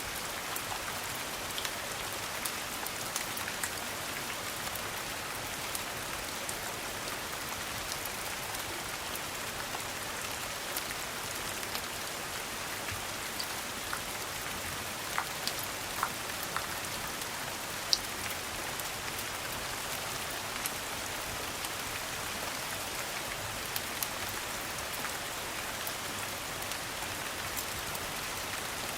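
Steady rain falling, with scattered sharp clicks and pops through it.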